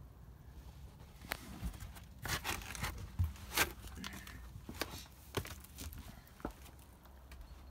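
Handling noise: irregular rustling and scraping with a string of sharp clicks, about a second in until near the end.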